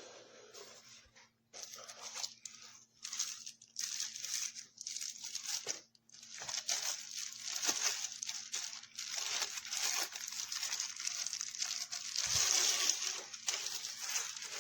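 Packaging being handled: crinkling and rustling in irregular bursts, heaviest near the middle and toward the end, over a faint steady low hum.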